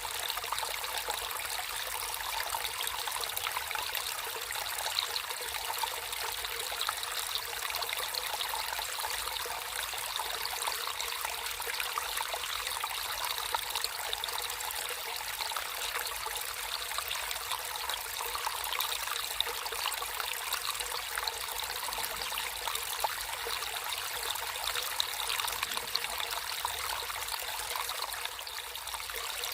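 Water flowing naturally in a small stream: a steady, even sound of running water with many small splashes.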